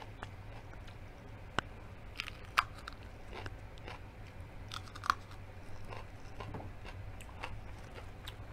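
Close-miked biting and chewing of a crunchy slice of raw red bell pepper, with sharp crunches about one and a half, two and a half and five seconds in and softer chewing clicks between.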